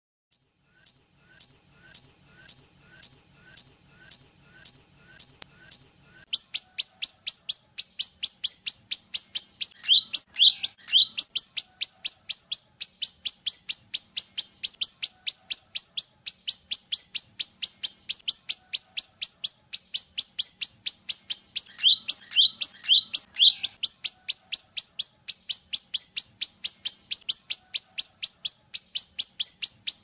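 Rio-rio bird song: first a series of high, thin chirps, each falling in pitch, about two a second, then from about six seconds in a fast run of high chirps, about four a second, with a few lower, fuller notes breaking in twice.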